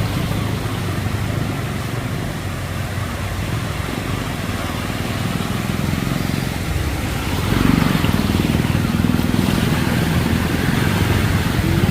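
A motor vehicle's engine running steadily, louder from about seven and a half seconds in.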